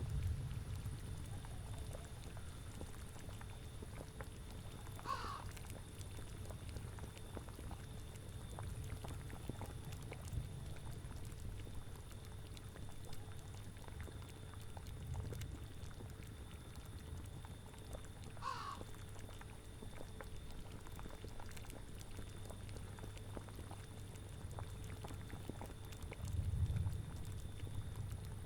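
Boiling cauldron bubbling in a low, steady rumble that swells now and then, most strongly near the end. Twice, about five seconds in and again near nineteen seconds, a short animal call sounds from one of the witch's pets.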